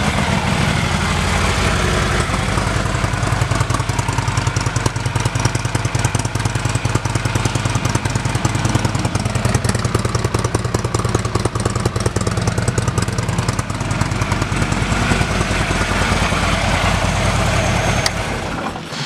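Harley-Davidson Electra Glide Ultra Limited's V-twin engine idling steadily through an aftermarket Vance & Hines exhaust. It is shut off near the end.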